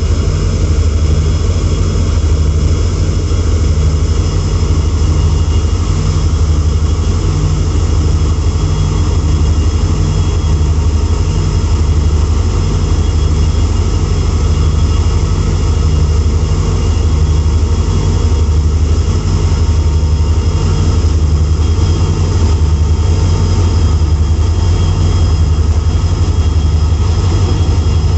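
WDP4D diesel-electric locomotive's engine running steadily at close range: a deep pulsing engine sound with a steady high whine over it.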